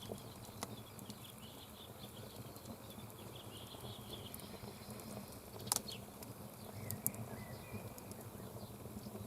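Campfire crackling: a few sharp pops, the loudest a little past halfway and another about a second later, over a steady background with faint bird chirps.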